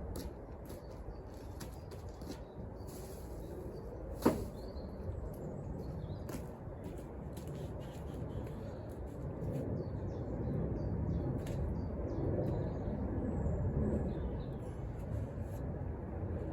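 Rustling and handling noises with faint scattered clicks, and one sharp knock about four seconds in.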